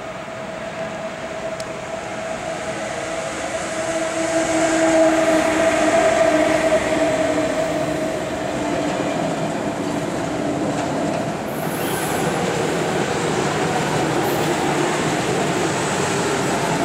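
Electric freight locomotive passing with a steady whine from its traction equipment, loudest about five or six seconds in. It is followed by the even rumble of low-floor wagons carrying lorries rolling past.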